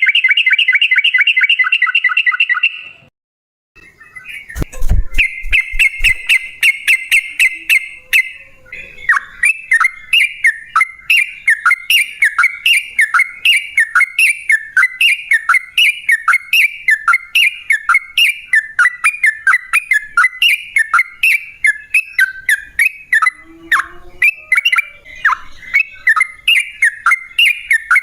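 Yellow-vented bulbul calling: a rapid chattering trill, a pause, a second trill, then a steady run of short falling notes about two a second. A few low thumps come about five seconds in.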